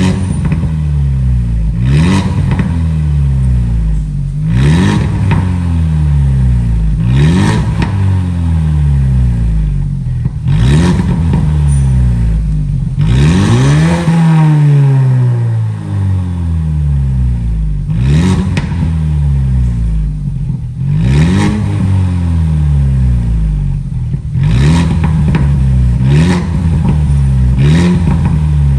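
Ford Mustang engine through an aftermarket Valvetronic valved exhaust, being revved repeatedly while parked. Each blip rises sharply and falls back over a second or two, about a dozen in all, with one longer, higher rev about halfway through.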